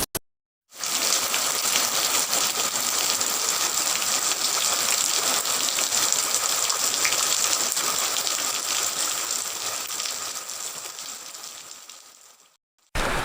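Steady rain, an even hiss of falling drops that starts just under a second in and fades away over the last few seconds.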